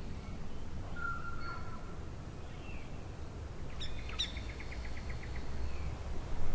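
Forest birds calling: short whistled notes, then about four seconds in a quick run of about ten clipped notes, over a steady low rumble.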